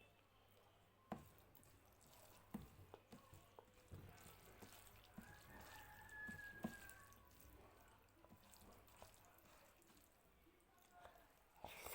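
Faint, scattered wet clicks and smacks of eating by hand and chewing, with a sharper click about a second in and a cluster of them a few seconds later.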